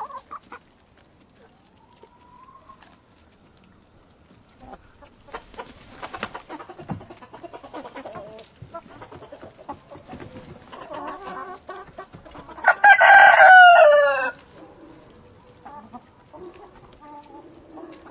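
Hens clucking in a chicken coop, then a rooster crows once, loudly, about thirteen seconds in, his call dropping in pitch at the end. Softer clucking follows.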